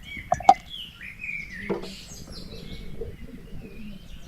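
Small birds chirping in short rising and falling calls, with two sharp knocks in quick succession about half a second in and another a little later.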